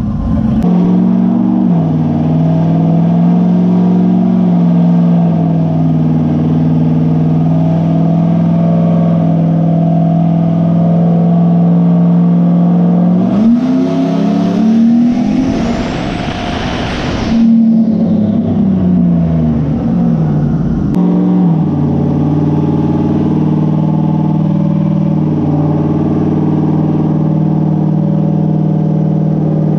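Turbocharged engine of a Chevy S10 drag truck running steadily, then revved once for about four seconds with a rising high whistle before dropping back to its steady run.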